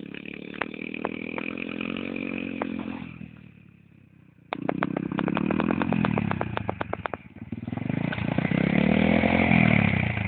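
Small motorbike engine revving and easing off, fading to quiet about three seconds in, then cutting back in suddenly with a quick run of sharp ticks and revving up again louder near the end.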